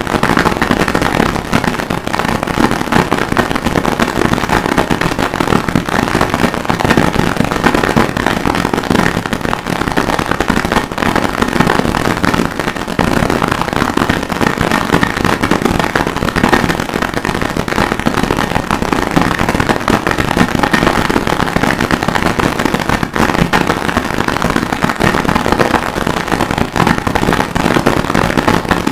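Harsh noise music: a loud, unbroken wall of dense crackling noise, with no separate hammer blows standing out.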